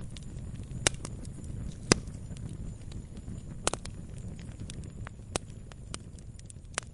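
Campfire crackling: irregular sharp pops and snaps of burning wood over a low, steady rumble, with the loudest pop about two seconds in.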